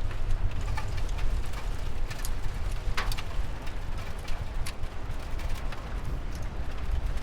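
Steady rain with scattered louder drops ticking sharply, the clearest about three seconds in, over a low rumble.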